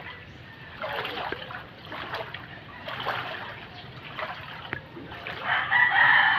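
Water splashing about once a second, then a rooster crows loudly near the end, a long held call.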